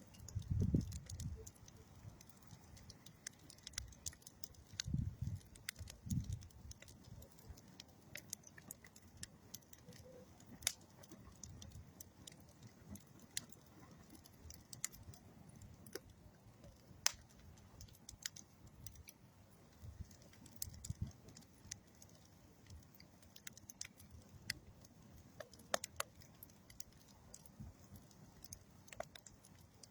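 Campfire of old railroad wood and dead tree wood crackling: irregular sharp pops and snaps, with a few low soft puffs in the first six seconds or so.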